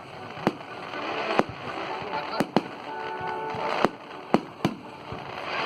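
Fireworks display: a string of sharp bangs from bursting aerial shells, about seven in a few seconds, over a steady crackling hiss.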